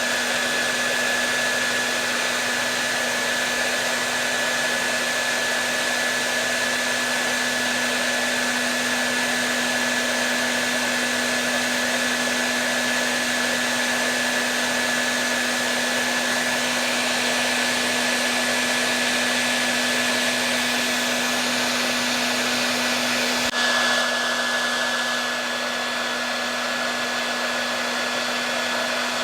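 Hair dryer running steadily: a constant rush of air over a low motor hum and a thin high whine. About three-quarters of the way through there is a brief click, after which it runs a little quieter and duller.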